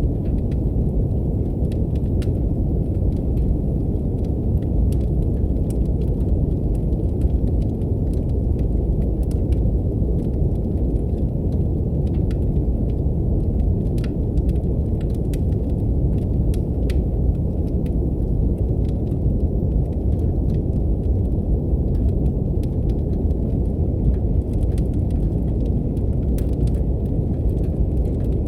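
Steady brown noise, a deep even hiss, overlaid with the scattered pops and crackles of a wood fire burning in a fireplace.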